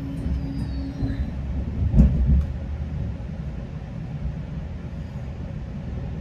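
GO Transit commuter train running on the rails, a steady low rumble with a single sharp thump about two seconds in. A steady hum stops about a second in.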